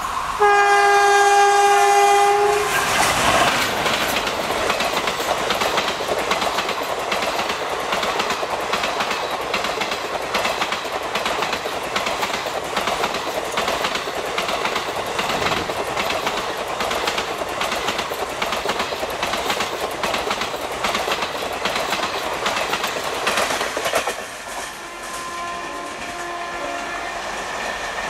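WAP-4E electric locomotive's horn sounding once for about two seconds, then an express passenger train running past at around 100 km/h, a steady rush with rapid clickety-clack of wheels over rail joints. About 24 seconds in the noise drops away as the train recedes.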